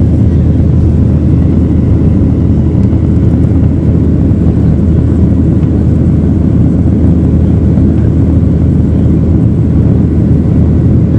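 Airliner cabin noise heard from inside the cabin: a loud, steady low rumble of the jet engines and airflow.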